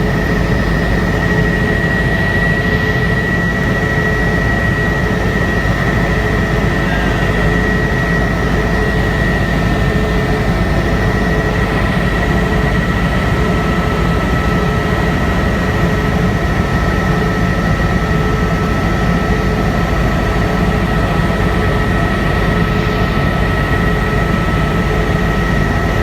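Helicopter engine and rotor noise: a loud, unchanging drone with a steady high-pitched whine over it.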